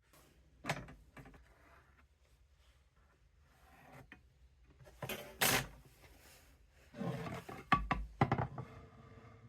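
Irregular knocks and clatter of wooden workpieces being handled, with a louder scrape about halfway and a quick run of knocks near the end.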